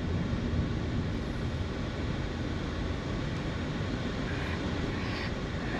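Steady road and engine noise inside a moving car, an even rumble with no separate events.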